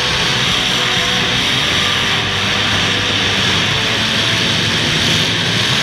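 Engines of several full-size demolition derby cars running together in a loud, steady din, with no crashes standing out.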